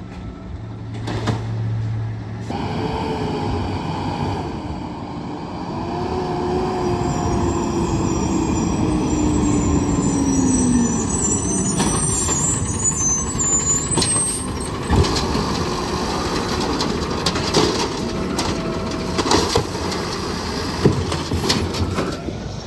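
Garbage truck running, with a whine that slowly drops in pitch near the middle, then scattered knocks and clanks in the second half.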